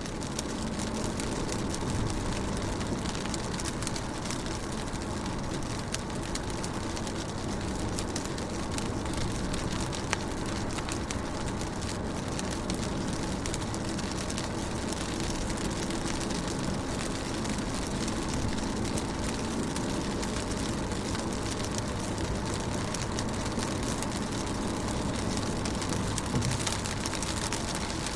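Rain falling on a car's windows and body, heard from inside the car: a steady hiss over a low rumble, with scattered sharp ticks of single drops.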